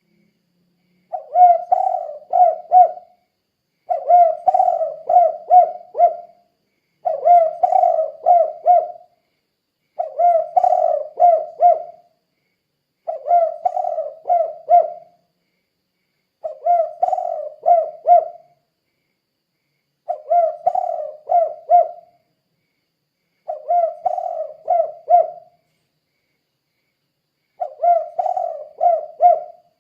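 Spotted dove (tekukur) singing its cooing song in the 'kuk 2' style: a phrase of four or five coos about two seconds long, repeated nine times at a steady pace of roughly one phrase every three and a half seconds.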